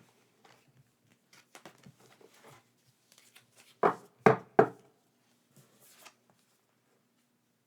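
Handling of packaging and merchandise: light rustles and clicks, then three loud knocks in quick succession about four seconds in, as of objects set down or tapped on a hard surface.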